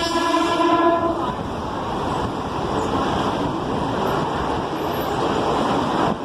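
A train horn sounds once for just over a second, then the steady rumble of a Mumbai suburban local train running along the track.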